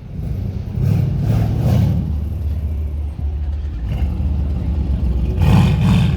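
Car engine running and revving, with a louder surge near the end.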